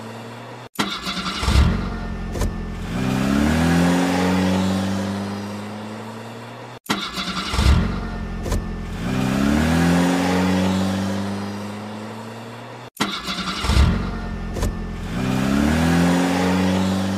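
Car engine revving up, as a short looped clip that repeats about every six seconds. Each pass starts abruptly with a few sharp clicks, then the engine pitch climbs in steps and holds before the clip cuts off and begins again.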